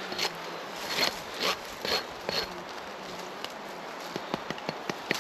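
A fly buzzing close by as a faint steady hum, over footsteps crunching about twice a second through forest litter. Near the end come a run of small sharp crackles and snaps.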